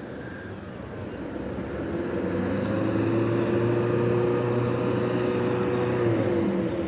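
A motor vehicle approaches and passes on a rain-soaked street. Its engine hum swells from about two seconds in and fades near the end, over a steady hiss of wet-road and rain noise.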